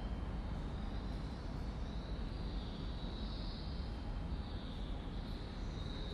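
Railway station platform ambience between trains: a steady low rumble, with a faint high hiss that swells and fades every second or two.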